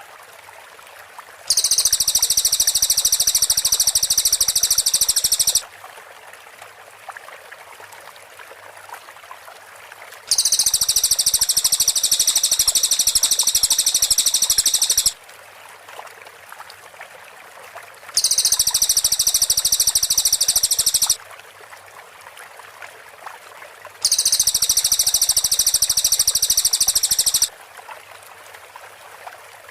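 Cililin bird singing its rapid, high-pitched trilling song in four bursts, each three to five seconds long, with a faint steady hiss in the gaps.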